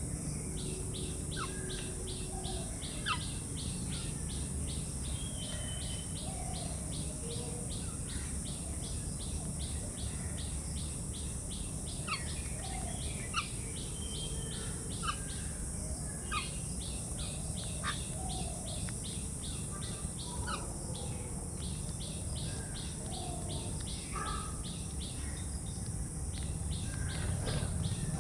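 Birds chirping with short, scattered calls over an insect's steady, regularly pulsing chirr and a constant high hiss.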